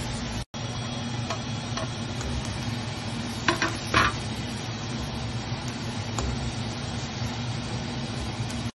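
Onions and bell peppers sizzling in a wok as a spatula stirs them, with light scrapes and clicks and two louder knocks of the spatula on the pan about three and a half and four seconds in. A steady low hum runs underneath.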